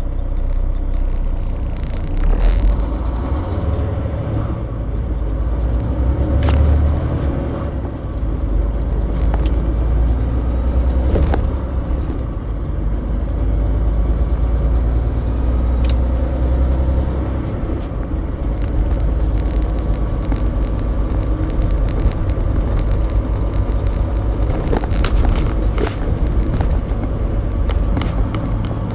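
Semi truck on the move: a steady low rumble of diesel engine and road noise, with scattered sharp clicks and rattles throughout.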